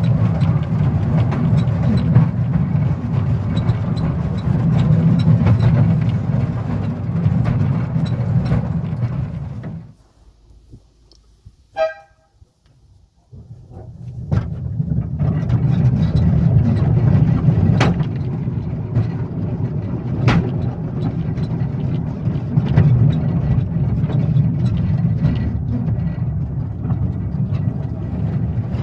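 18in gauge narrow-gauge train running with a steady low rumble and scattered clicks. About ten seconds in, the sound drops to near silence for about three seconds, broken by one brief high toot, then the rumble returns.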